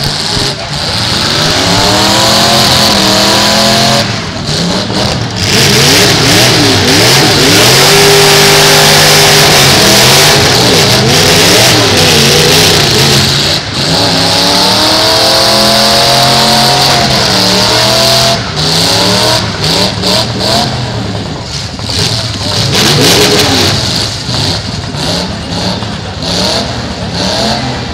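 Engines of full-size demolition derby cars revving hard, their pitch climbing and falling over and over as the cars push and ram in the arena. Loud throughout, with a brief dip about four seconds in and again near fourteen seconds.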